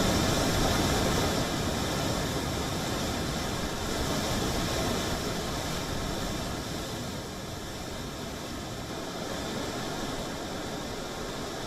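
Steady rushing noise with a few faint steady tones in it, slowly getting quieter.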